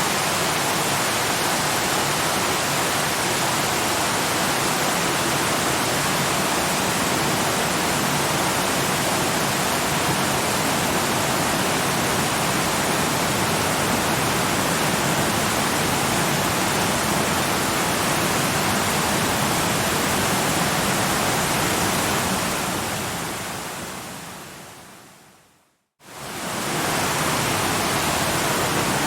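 Waterfall recording, a steady rush of falling water. About three-quarters of the way through it fades out to complete silence, then fades quickly back in, as at a loop or track joint.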